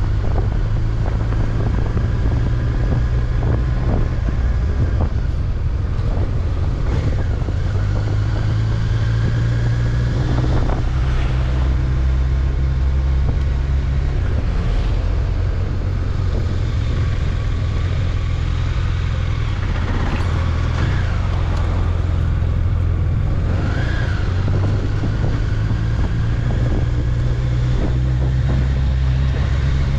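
Honda CBR1100XX Blackbird's inline-four engine running on the move, its low note shifting a few times with the throttle, with wind noise on the microphone.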